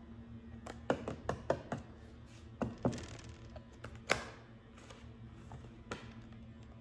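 Tarot or oracle cards being handled on a table: a scatter of light, irregular taps and clicks, most of them in the first three seconds.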